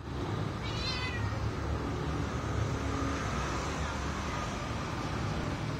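Cat giving a short, wavering high-pitched yowl about a second in, the caterwaul of cats mating. A steady low rumble runs underneath.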